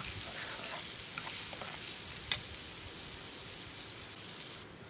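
Semolina and raisins frying in ghee in a pan, sizzling steadily while a steel spoon stirs and scrapes the pan, with a few sharp clicks of spoon against metal. The sizzle cuts off just before the end.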